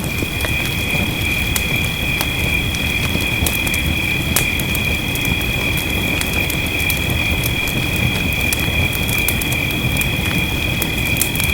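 Wood fire crackling in a fireplace, with sharp irregular pops, over a steady low rush of rain. A steady high-pitched ringing tone runs underneath.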